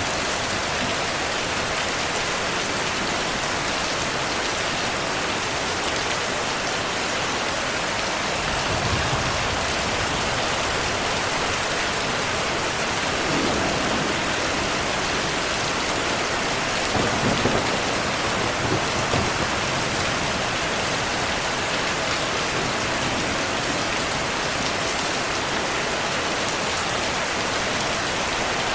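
Steady heavy rainfall with distant thunder rolling low twice, about a third of the way in and again past the middle.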